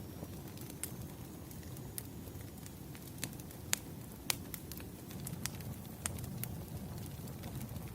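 Wood fire crackling: sharp, irregular pops and snaps over a low, steady rumble of burning logs.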